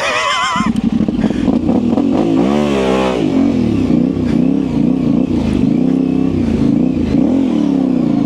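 Yamaha Ténéré 700's parallel-twin engine restarting about half a second in after stalling. It then runs with the throttle blipped, the pitch climbing sharply and falling again several times.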